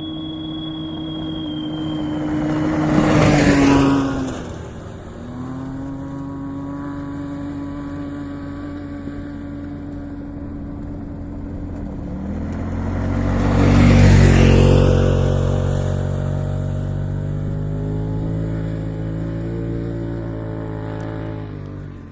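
Off-road vehicle engines passing close by one after another. One goes by about three seconds in with its pitch dropping as it passes, and a louder one goes by about fourteen seconds in. Steady engine drone carries on between them.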